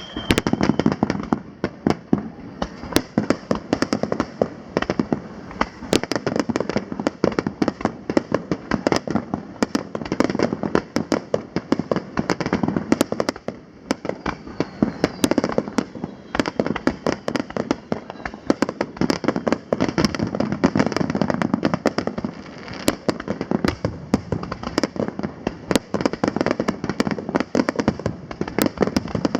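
Fireworks display: a dense barrage of aerial shells bursting, several sharp bangs a second, with crackle between them.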